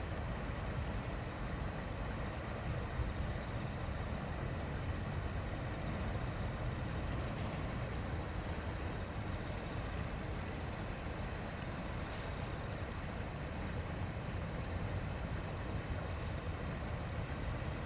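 A shallow river's babbling stream flowing, a steady, even rush of water with no separate splashes or other events.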